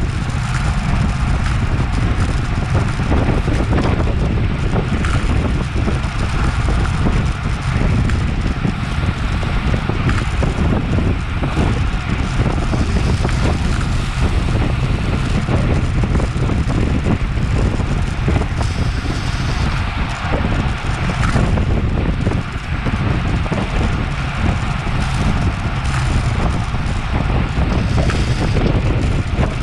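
Steady wind rushing over the microphone of a bicycle-mounted action camera while riding at speed, heavy in the low end.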